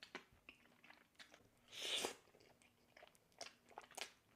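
Close-miked eating sounds: a person chewing food with small crunches and wet clicks, with one louder crunch about two seconds in and a few sharper ones near the end. The food is creamy Buldak noodles and soup dumplings fried to have a little crunch.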